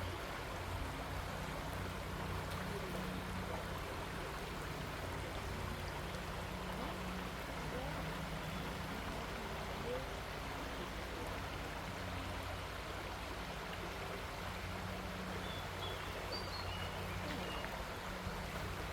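Creek water running steadily over a steady low hum, with a few faint, high bird chirps near the end.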